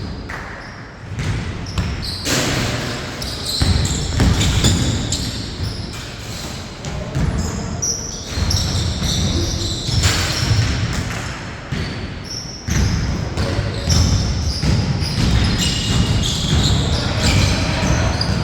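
A basketball bouncing repeatedly on a court during a game, with many short knocks and brief high-pitched sounds throughout.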